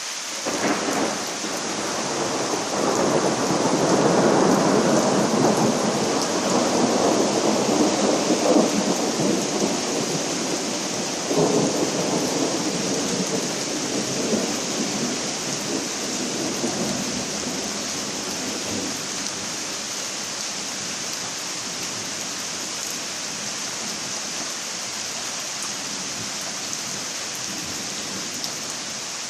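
Steady rain hissing throughout, with a long rolling rumble of thunder over the first half, loudest about four to nine seconds in, and a sharper clap about eleven seconds in; after that the rain continues alone.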